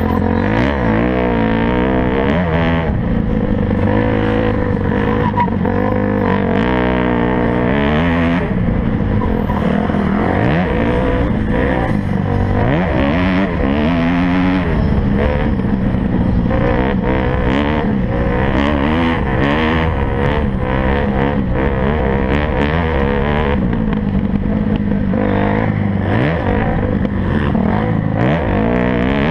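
Motocross motorcycle engines racing, several at once, their pitches rising and falling over one another as riders open and close the throttle.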